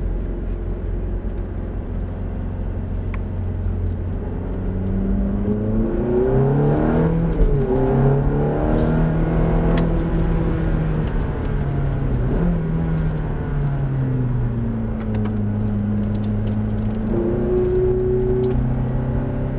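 Ferrari F430's V8 engine heard from inside the cabin. It runs low at first, then revs up hard under acceleration, with a sudden pitch drop at an upshift about seven and a half seconds in. It holds a high note, then falls away as the car slows, with a brief higher note near the end.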